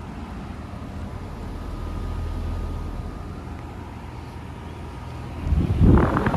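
Outdoor central air conditioner or heat pump unit running in cooling mode, its compressor and condenser fan making a steady low hum with a faint high tone over it. Near the end a louder rushing noise swells up over the hum.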